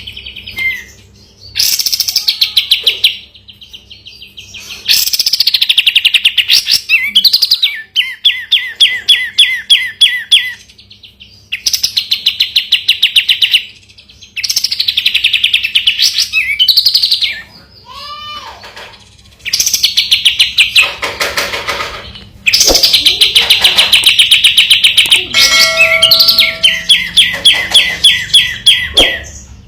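Kapas tembak (a bulbul) singing in loud bouts of very fast, rattling trills, each bout lasting a second or three, with short pauses between them.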